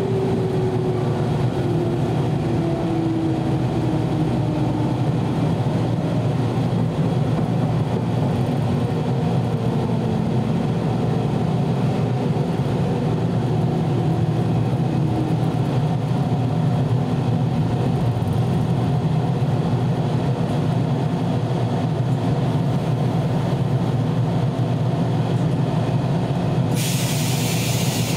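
413-series electric train heard from inside, slowing: a motor and gear whine falls in pitch over the first ten seconds or so above a steady low running rumble. A sudden hiss starts near the end.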